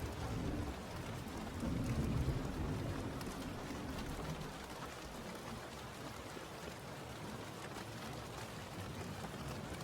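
Steady rain falling, with a low rumble that swells briefly at the start and again about two seconds in.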